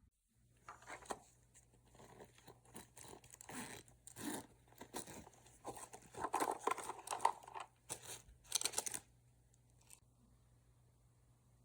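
Irregular rustling and crinkling, like material being handled or torn, over a faint steady low hum. It stops about nine seconds in.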